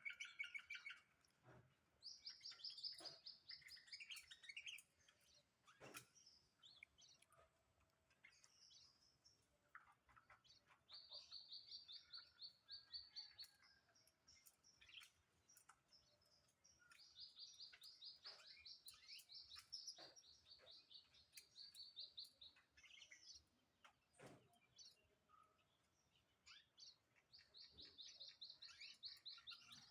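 Pet white-eye (pleci) singing faintly: four high, fast trilling phrases of two to three seconds each, with short chirps between them and a couple of soft knocks.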